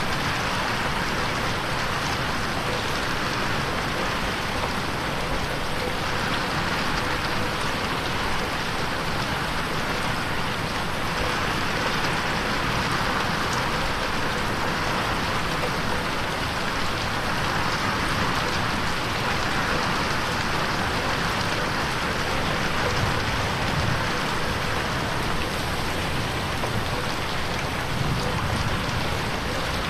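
Steady rain falling on a bedroom window, an even wash of noise with slow gentle swells, processed as 8D audio that pans around the listener.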